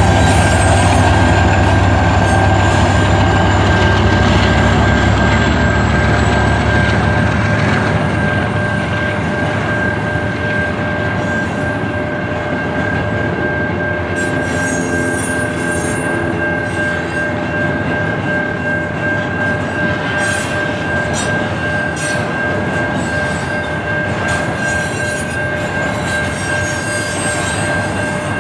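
A train passing close by. A heavy low rumble fades after about seven seconds, leaving the steady rolling noise of the railcars with a thin continuous wheel squeal. Sharp wheel clicks over the rail joints come in near the end.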